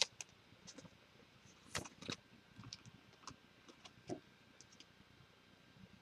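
Faint, scattered clicks and ticks from a trading card being handled and fitted into a plastic card holder, the loudest near the start and about two and four seconds in.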